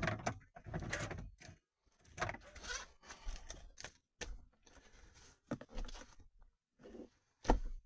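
Irregular clicks and clunks as the starter of a Chrysler Grand Voyager is tried on a full battery; the engine does not turn over at all because it is seized. A heavier low thump comes near the end.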